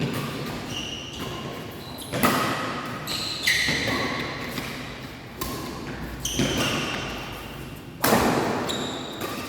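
Badminton rackets striking a shuttlecock in a rally, about five sharp hits a second or two apart, each echoing around the sports hall.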